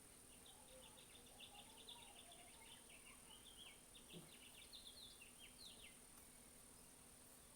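Faint bird song: a rapid run of short chirping notes lasting about five seconds, then stopping, over a quiet room background.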